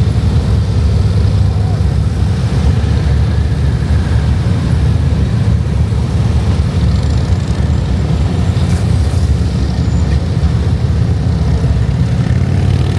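Motorcycle running, a loud, steady low rumble.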